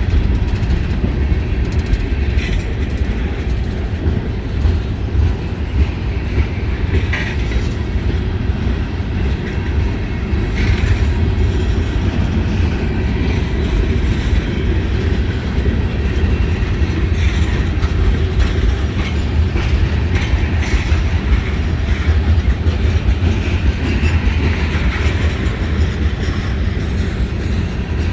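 Freight cars rolling past with a steady low rumble and rail clatter, with occasional brief higher-pitched squeals from the wheels.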